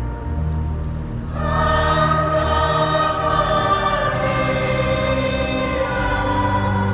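Church choir singing sacred music over sustained low organ chords; the voices come in about a second and a half in.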